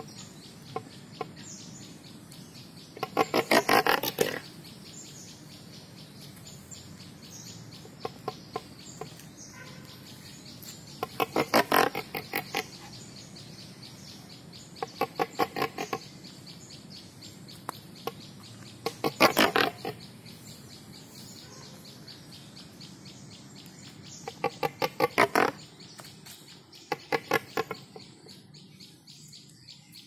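A bird calling in short bursts of rapid, even chattering pulses, each burst about a second long and repeated about seven times every few seconds, over a steady background hum.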